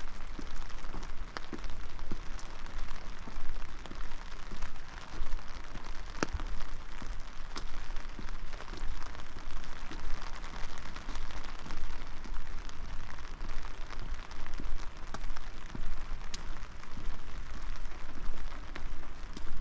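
Steady rain falling, with many sharp individual drop hits close by over an even patter, and a low rumble underneath.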